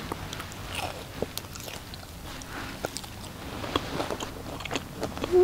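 A person biting and chewing a mouthful of grilled meat, with many small irregular wet clicks of chewing.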